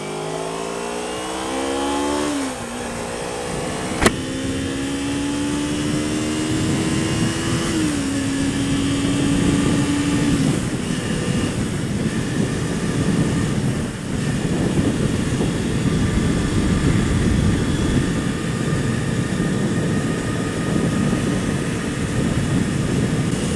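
Kawasaki Ninja 250's parallel-twin engine accelerating through the gears, its pitch climbing and then dropping at two upshifts, with a sharp click about four seconds in. After that, steady wind rush on the helmet microphone covers the engine at riding speed.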